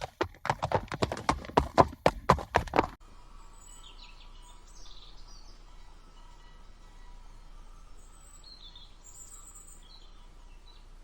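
Horse hooves clattering in a quick, irregular run of beats for about three seconds, then cutting off abruptly. After that comes a faint outdoor background with a few short, high chirps.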